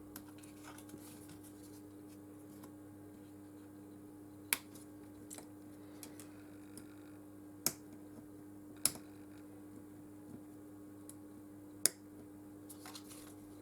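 Small hand tools clicking against a smartphone's internal parts as a component is pried loose: four sharp clicks spaced a few seconds apart, with fainter taps between, over a steady low hum.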